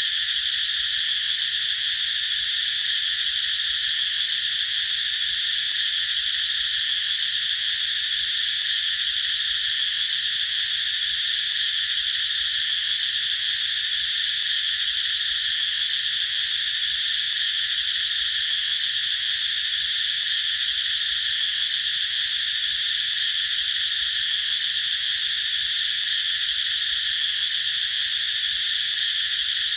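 Cicadas singing in a continuous, steady, high-pitched drone that neither rises nor falls.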